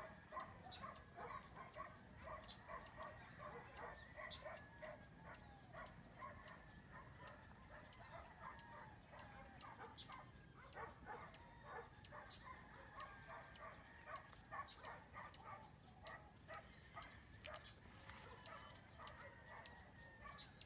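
A dense chorus of many short animal calls overlapping throughout, with scattered sharp clicks.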